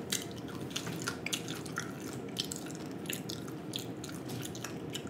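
A person chewing fried snapper, with many small, irregular mouth clicks and smacks.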